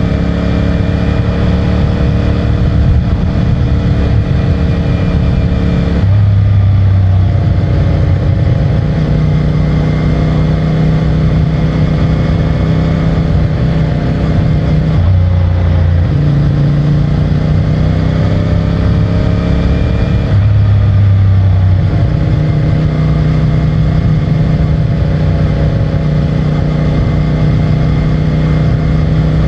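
CFMOTO 450MT's parallel-twin engine running under way on the stock exhaust. The engine note shifts abruptly several times: about six seconds in, around fifteen to sixteen seconds, and around twenty to twenty-two seconds.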